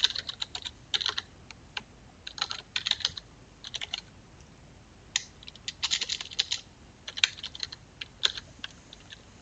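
Typing on a computer keyboard: irregular runs of quick key clicks with short pauses between them, as a file path and name are typed in.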